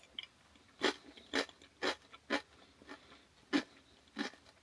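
Crunching while chewing rice crackers topped with tuna: six crisp crunches, about two a second, with a short pause in the middle.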